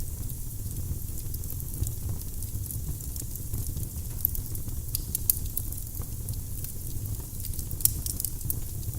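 Firewood burning in a fireplace: a steady low rumble of flames with scattered sharp crackles and pops, the loudest about five and eight seconds in.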